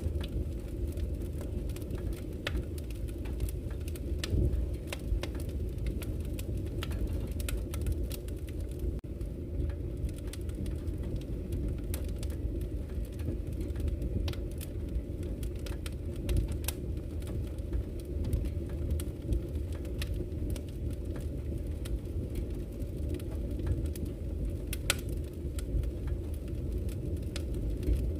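Wood fire burning in a fireplace: a steady low rumble of flames with frequent sharp crackles and pops from the burning logs, a few louder pops near the end.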